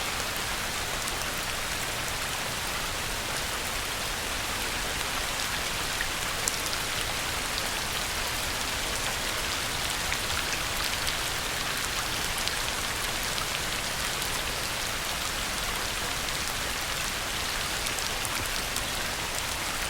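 Heavy rain falling steadily on a pond, a dense even hiss with scattered sharper drop splashes.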